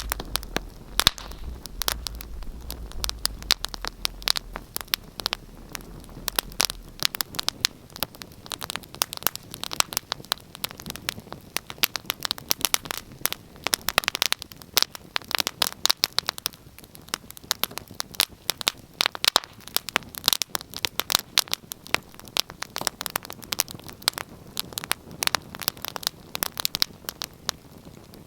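Fire crackling in a fireplace: dense, irregular pops and snaps over a soft hiss, with a low rumble that fades out about seven seconds in.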